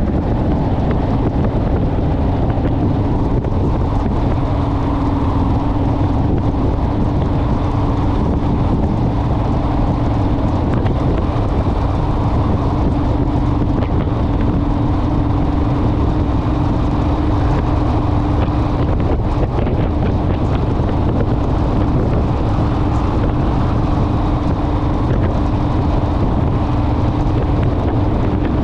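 Honda Rebel motorcycle engine running at a steady cruising speed under loud wind rush on the microphone.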